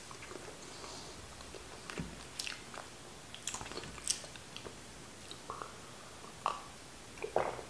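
Close-miked chewing of green beans, with scattered small mouth clicks and light knocks. About six seconds in, water is drunk from a glass.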